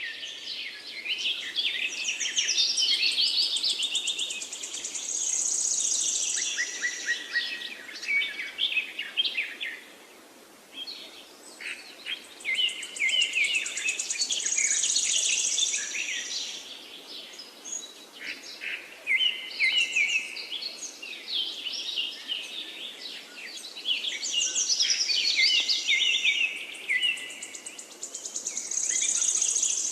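Songbird singing long, complex songs of rapid trills and chirps, in bouts of several seconds separated by short pauses.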